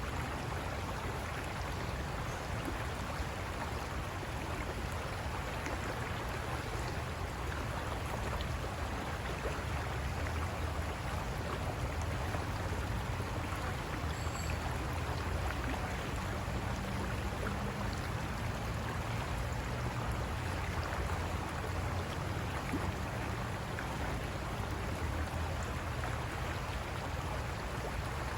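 River water rushing steadily over rocks, a continuous even roar with a strong low rumble.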